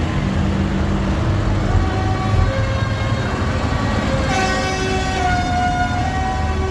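Tractor engines running, with a horn sounding a run of held notes at changing pitches. The notes are fullest and loudest from a little past the middle.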